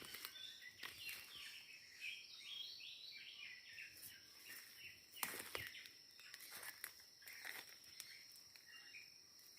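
Small birds chirping in quick, short notes for the first few seconds over a steady high insect drone, with a few soft rustles or steps in vegetation around the middle.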